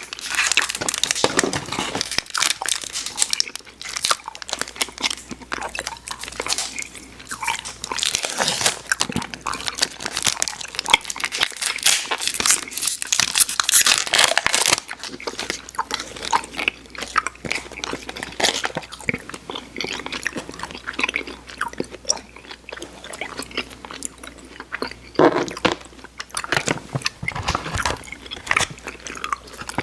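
Close-miked mouth sounds of someone biting and chewing Airheads Xtremes sour chewy candy: irregular wet smacks and clicks, busier and louder in the first half.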